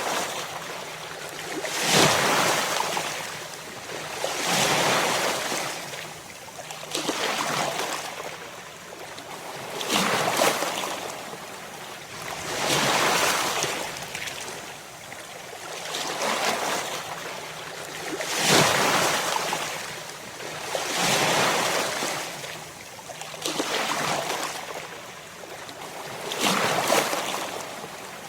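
Ocean waves breaking on a shore. Each wave comes in as a rushing hiss that swells and falls away, in a steady rhythm of about one wave every two and a half to three seconds.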